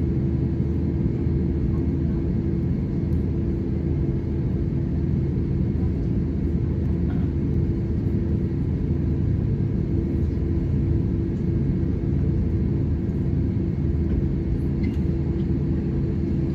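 Steady low rumble of an Airbus A320 airliner heard from inside the cabin, engines running at low power on the ground, with a constant mid-pitched hum over it.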